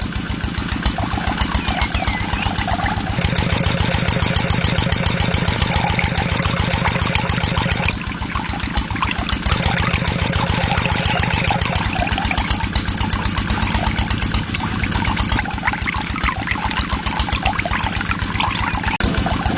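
Small engine running steadily with a fast, even firing beat, with water rushing or splashing from a pump at the same time. The sound changes slightly at a few cuts.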